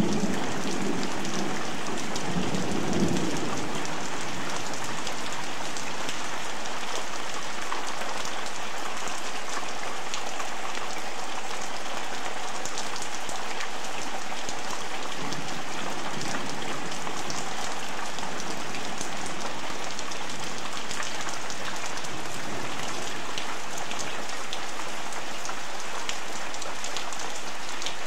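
Heavy rain pouring down and splashing on a wet concrete patio, a steady hiss. A rumble of thunder dies away in the first few seconds.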